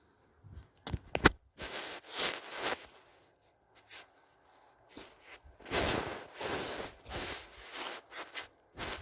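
Rustling and scraping handling noises, with a few sharp clicks about a second in.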